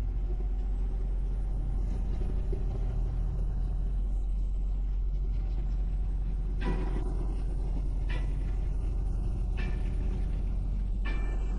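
Steady low rumble of a semi truck driving at highway speed, heard from inside the cab. In the second half a short thump comes about every second and a half.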